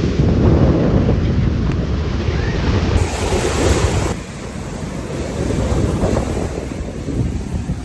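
Wind buffeting the microphone over ocean surf; the rumble eases somewhat about four seconds in.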